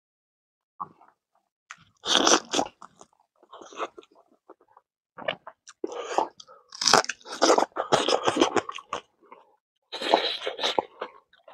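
Close-miked chewing and crunching of a mouthful of rice with kidney beans and smoked pork, then crisper crunching as a piece of raw red onion is bitten. The sounds come in irregular bursts with short pauses between.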